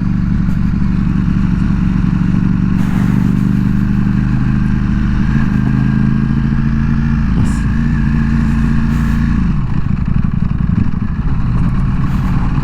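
Ducati Panigale V4S's 1103 cc V4 engine running at steady revs under way. There is a brief break in the note about two thirds of the way through, and the engine note falls near the end as the bike slows.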